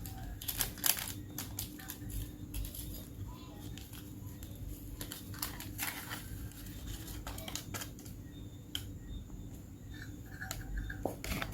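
Kitchen handling sounds while dry ingredients for a cake are measured out: scattered clicks, taps and rustling of measuring cups, spoons and packaging, over a steady low hum.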